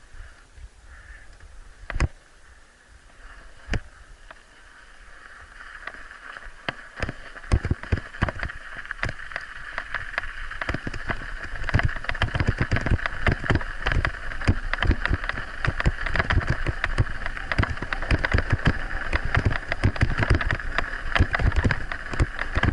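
Scott Spark full-suspension mountain bike being ridden, heard through an action camera: knocks and rattles over rough ground with low wind rumble on the microphone and a steady high hum. A few separate knocks at first, then from about six seconds in it becomes dense and louder as the ride picks up.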